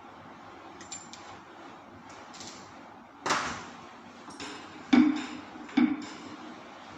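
A series of knocks and clanks: light clicks early, a loud knock with a short ringing tail a little before halfway, then two sharp, booming knocks under a second apart.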